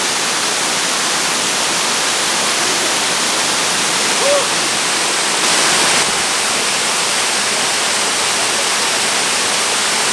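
Waterfall rushing steadily, a constant loud hiss of falling water. A brief faint voice cuts through about four seconds in.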